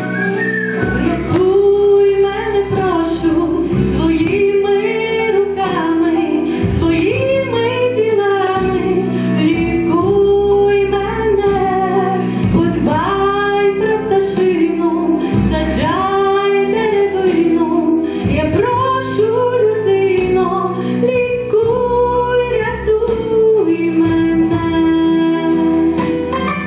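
A song: a sung melody over an instrumental backing track.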